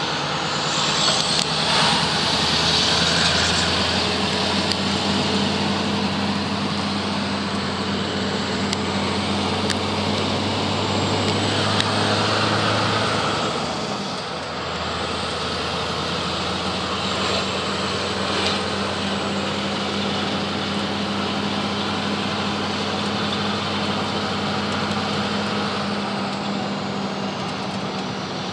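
Scania R500 V8 diesel engine with an open exhaust pipe running steadily, a deep even drone that drops briefly about halfway through and then settles back to a steady note.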